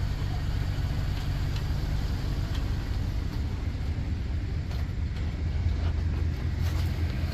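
Car interior noise while driving: a steady low engine and road rumble, with a few faint ticks.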